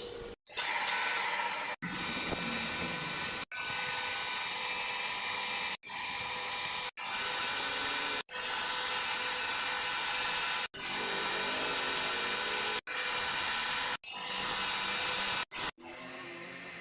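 Power tool running with a high-pitched whine, in a series of short stretches that each cut off abruptly.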